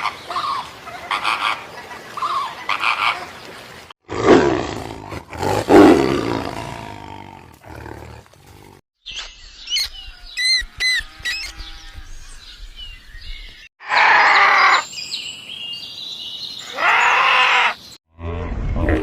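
Farm animals calling in a run of short clips with hard cuts between them: loud calls in the first half, bird chirping in the middle, then two long drawn-out calls near the end.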